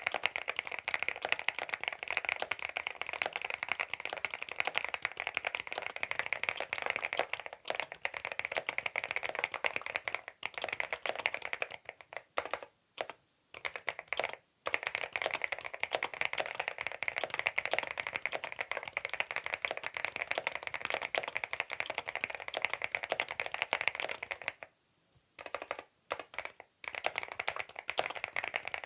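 Fast, continuous typing on a CIDOO V87 aluminium mechanical keyboard: a dense run of key clicks, with brief pauses about halfway through and again near the end.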